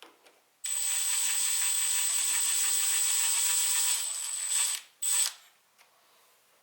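Small cordless power tool motor, such as a drill or electric ratchet, spinning with a high steady whine for about four seconds, then a short second burst.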